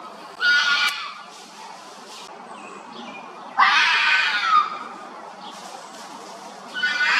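Harsh, high-pitched animal screaming calls, three of them: one near the start, a longer one in the middle that slides up then down, and one near the end.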